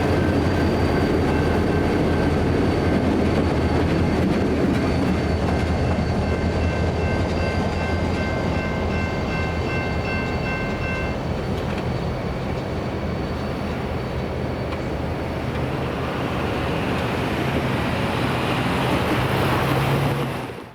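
BNSF local freight train rolling past: a steady diesel-locomotive rumble with railcars running on the rails. High steady ringing tones sound over it and stop about halfway through.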